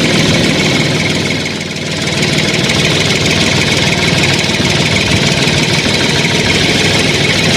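Diesel engine running steadily at idle, dipping briefly in level just under two seconds in.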